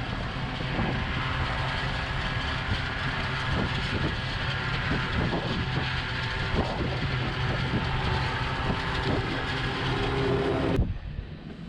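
Tractor engine running steadily with a constant low hum. It breaks off abruptly about a second before the end.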